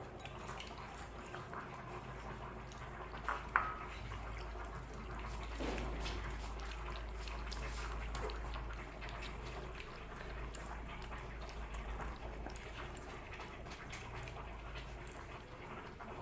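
Saint Bernard puppies lapping formula milk, a run of small wet clicks and slurps, with one short high squeak about three and a half seconds in.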